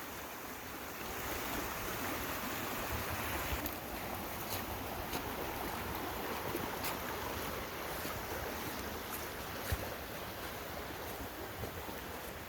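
Swollen creek in flood after heavy storm rain, its water rushing steadily.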